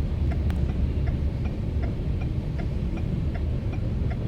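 Freight train passing with a steady low rumble, and a faint regular ticking about twice a second.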